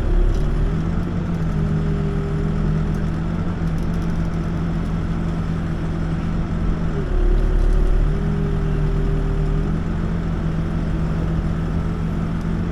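Backhoe diesel engine running under working load, its speed dipping and coming back up twice as the machine works.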